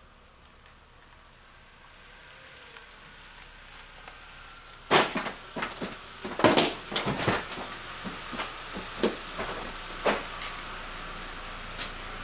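Wooden wall cracking and splintering in a run of irregular crashes that starts about five seconds in and thins out toward the end, over a faint steady hum.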